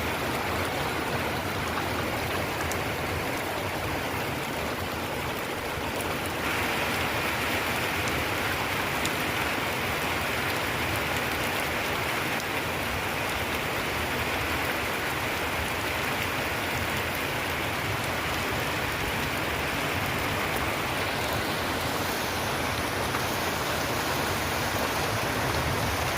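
Heavy monsoon rain falling steadily, a continuous hiss of downpour that grows a little louder about six seconds in.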